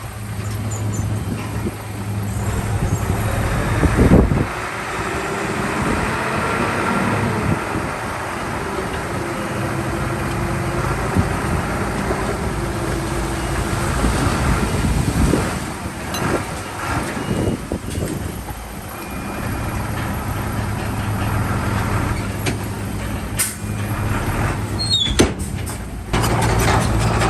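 Heavy diesel earthmoving machinery running under work: a steady engine drone with a wavering whine, scattered knocks and clanks, and a heavy thump about four seconds in. A brief high squeal comes near the end.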